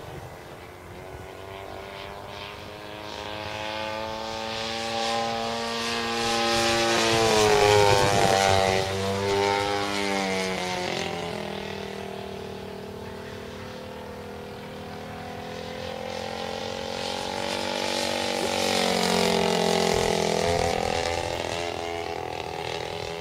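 The 50cc-class engine and propeller of a Seagull Edge 540 radio-controlled aerobatic plane in flight, droning as it makes two passes. It is loudest about eight seconds in, where its pitch drops sharply as it goes by, and it swells again with a falling pitch near the end.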